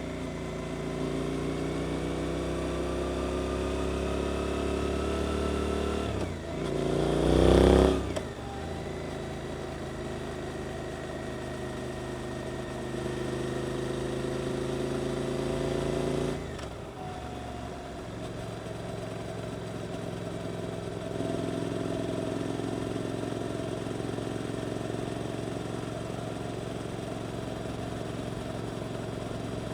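Suzuki GSX-8S parallel-twin engine through an Arrow aftermarket exhaust, heard from the moving bike. It pulls up through the revs, surges loudly to high revs at about seven to eight seconds in and cuts off sharply, then runs at a steadier pace. The throttle drops back at about sixteen seconds.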